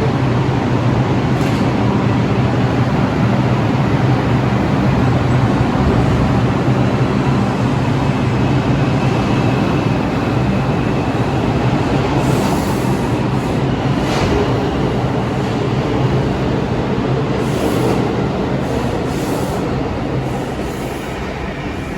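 New York City subway train running through the station with a loud, steady rumble and wheel noise. A faint high squeal rises in the middle, and the sound eases off slightly near the end.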